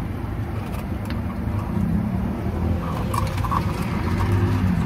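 Low, steady rumble of a motor vehicle running close by, growing a little louder toward the end.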